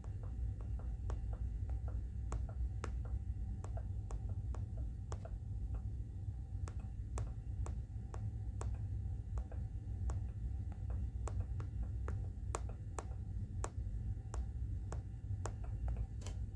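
Close-miked ASMR clicks and ticks: short, sharp little clicks at irregular spacing, a few each second, over a steady low hum.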